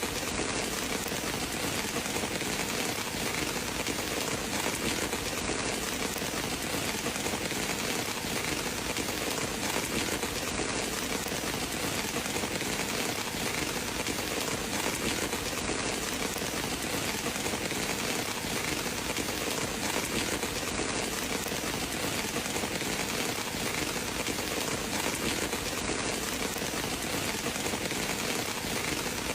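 Steady rain falling on a surface, an even wash of noise with no breaks or thunder claps.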